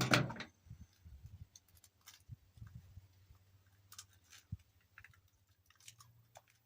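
Eggs being cracked and handled over a mixing bowl: scattered small cracks, crackles and clicks of eggshell, with a louder noise right at the start.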